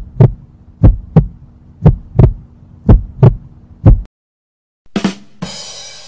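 Heartbeat sound effect: loud paired lub-dub thumps about once a second, stopping about four seconds in. Then a rimshot sting, 'ba dum tss': two quick drum hits and a cymbal crash that rings on.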